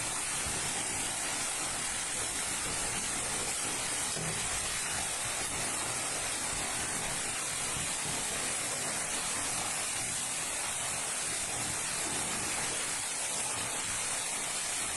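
Steady hiss, strongest in the high treble, with no distinct knocks, voices or tones.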